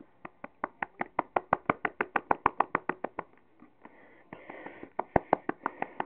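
Rapid run of sharp clicks, about seven a second, made by a person to coax a cat. It stops for about a second and a half, then starts again near the end with one louder click.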